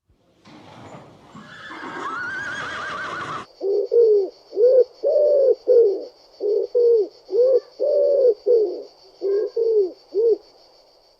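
Animal calls: a harsh, noisy call in the first few seconds, then about fifteen short calls that each rise and fall, about two a second, over a faint steady high-pitched tone.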